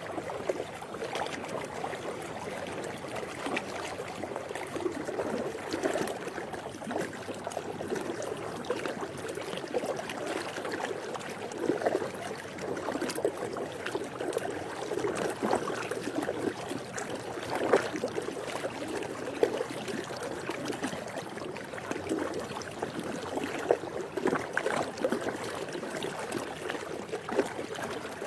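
Swimming pool water lapping and splashing: a continuous wash of small, irregular splashes and gurgles at a steady level.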